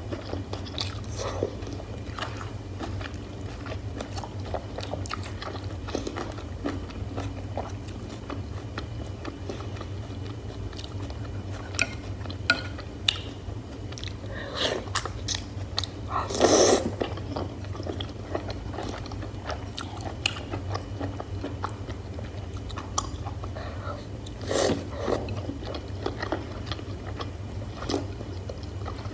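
Close-miked eating of hotpot beef and mushrooms: wet biting and chewing with many small mouth clicks and smacks, and two louder bites about halfway through and near the end. A steady low hum runs underneath.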